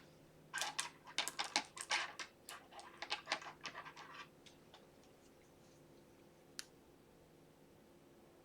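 Angled brow brush scratching through eyebrow powder: a quick run of short, sharp strokes for about four seconds, then a single click a few seconds later.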